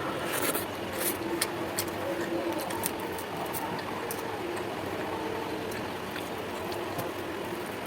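Wet clicks and squelches of a hand mixing and eating watery panta bhat, thickest in the first three seconds, over steady background noise.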